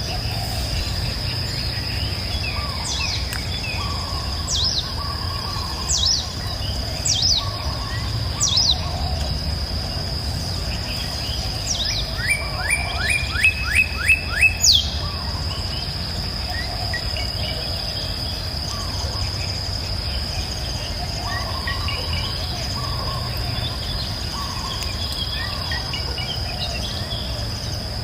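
Songbirds singing: a string of sharp, falling whistled notes repeated every second or two, then a quick run of about seven notes near the middle, with softer chirps throughout. Beneath them are a steady high insect-like drone and a low, even rumble of flowing water.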